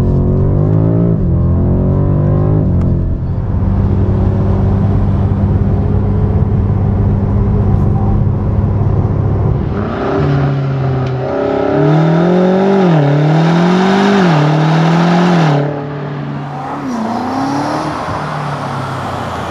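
BMW M5 Competition's 4.4-litre twin-turbo V8 revved in short blips, then settling to a steady idle. About ten seconds in, the sound changes and a run of quick rev blips rises and falls in pitch. It then drops back to a quieter idle, with one more short blip a little later.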